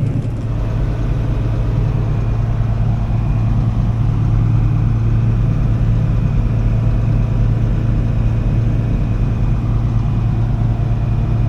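Harvest machinery's diesel engine running steadily: an even, constant low drone.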